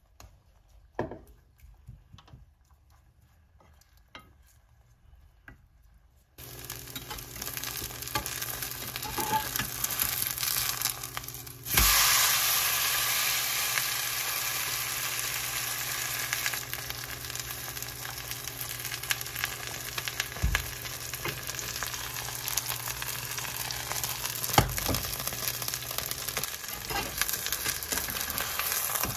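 Food frying in a pan, sizzling. After a few faint clicks the sizzle starts abruptly about six seconds in, gets louder at about twelve seconds, and runs on steadily with a couple of dull knocks.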